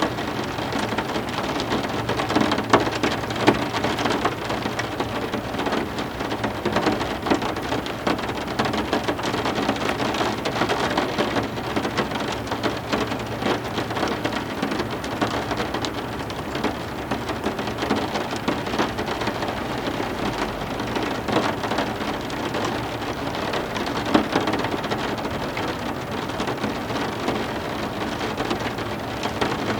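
Steady heavy rain falling on a surface, made up of a continuous wash of many separate drop hits.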